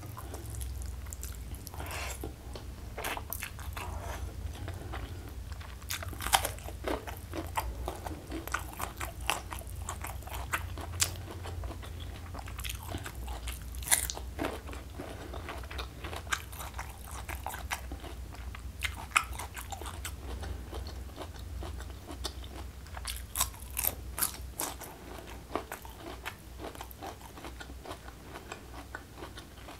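Close-miked eating sounds: steady chewing with sharp crunchy bites, a few much louder crunches scattered through.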